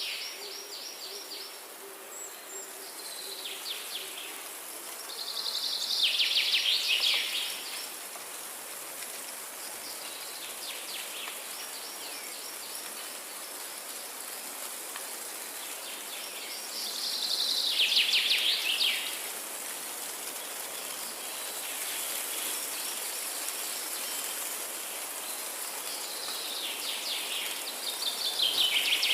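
Forest ambience: a songbird repeats a fast trilled song about a second or two long every few seconds over a steady hiss. A faint low steady note is heard in the first few seconds.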